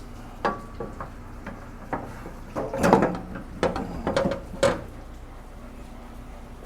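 Metal parts and hand tools being handled and set in place: a run of knocks and clanks, one with a brief ring, busiest about three seconds in.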